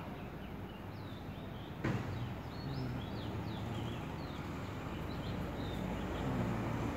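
Small birds chirping repeatedly in short high chirps, over a steady low background rumble, with a single knock about two seconds in.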